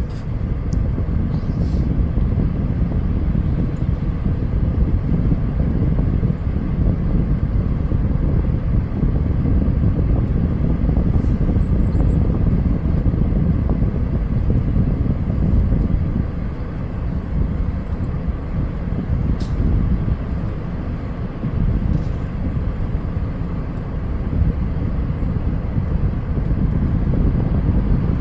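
Steady low rumble of wind and car noise coming in through an open car window.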